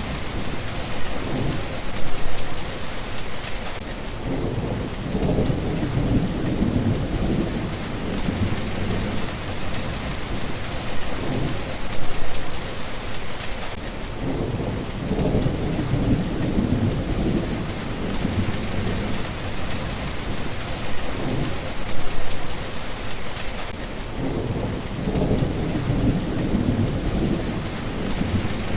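Steady heavy rain, with three low rumbling swells that build and fade over a few seconds each, about ten seconds apart.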